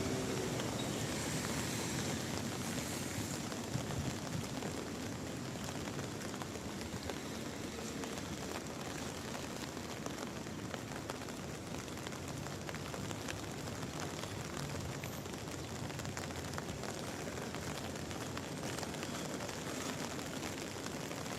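Steady rain falling: an even hiss of rain dotted with many small drop ticks.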